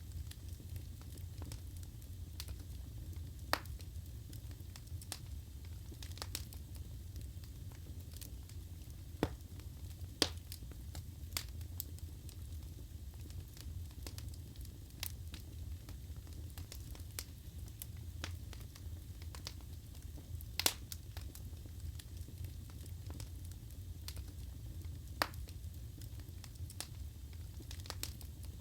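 Wood fire burning in a fireplace: a steady low rumble of the flames with sharp crackles and pops of the burning logs at irregular intervals, a few louder snaps among them.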